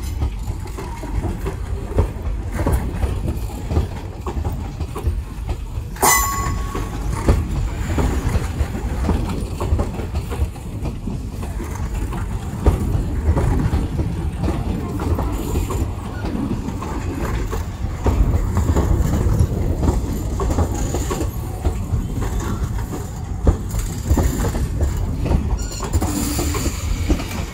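ICF passenger coaches rolling past on the track: a steady low rumble of wheels with clickety-clack over the rail joints. About six seconds in comes one sharp metallic clank that rings briefly.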